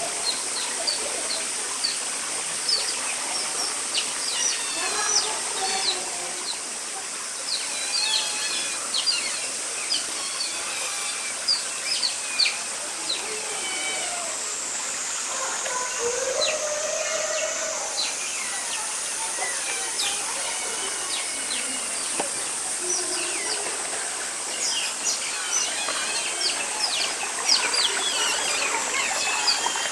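Asian small-clawed otters chirping and squeaking: many short, high calls in quick runs, over a steady high-pitched buzz.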